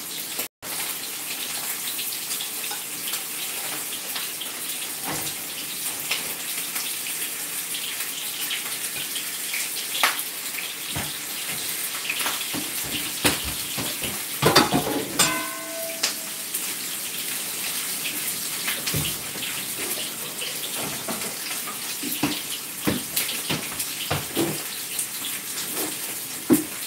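Pork ribs sizzling in a frying pan on the stove: a steady hiss with scattered crackles and pops. A few louder knocks come in the middle.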